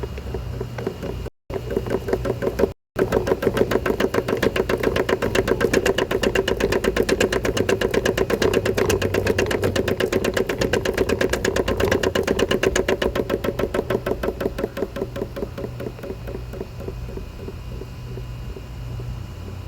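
Electrolux LPE17 washing machine running with a fast, even knocking from its suspension, strongest through the middle and easing off toward the end; the owner takes it for noise in the suspension.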